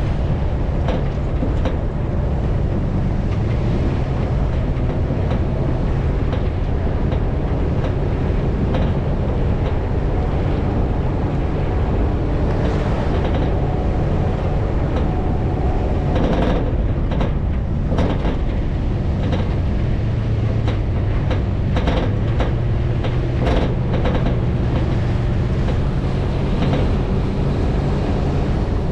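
Off-road vehicle engine running steadily under a constant low hum, with wind noise and a cluster of sharp knocks and rattles about halfway through.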